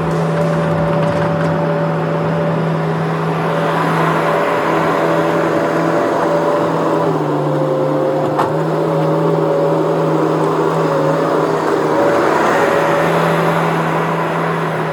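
Skid steer engine running steadily at working speed; its pitch sags briefly a little past halfway, as if under load, and a single sharp knock sounds about eight seconds in.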